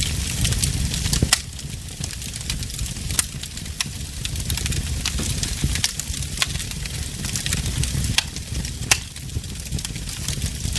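Burning logs crackling: irregular sharp pops and snaps over a low steady rumble, with the loudest pops about a second in and near the end.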